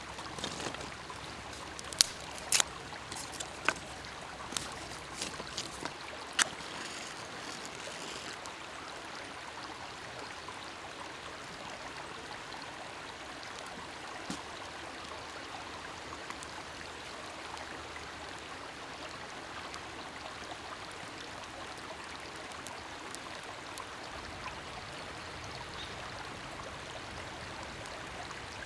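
Steady flowing-water sound, like a nearby stream, with a few sharp clicks in the first several seconds.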